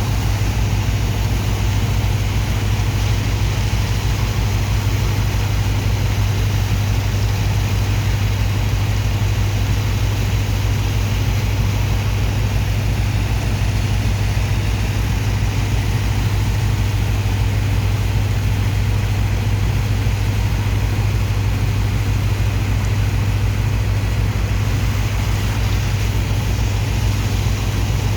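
Large diesel engine of a sand dredger's pump running steadily, with a deep, even hum and a steady hiss over it.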